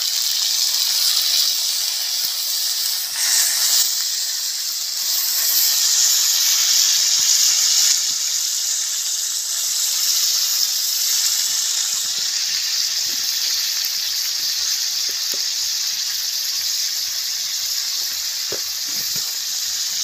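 Chicken and bottle gourd curry sizzling in a hot iron kadai, a loud, steady hiss.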